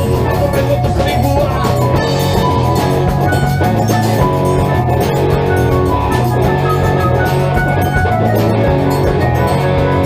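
Rock band playing live, an instrumental passage without singing: drum kit, bass, and sustained keyboard and guitar chords.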